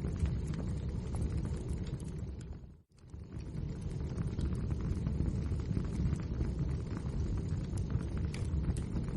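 Wood fire burning in a fireplace: a steady low rumble of flames with many small crackles and pops. The sound drops out almost completely for a moment about three seconds in, then returns.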